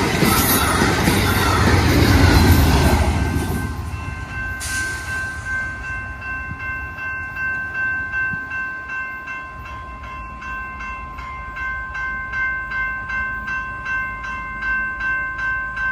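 Amtrak passenger cars rumbling past on the rails, fading out over the first few seconds. Then a grade-crossing warning bell rings steadily at about two strokes a second while the crossing gates rise.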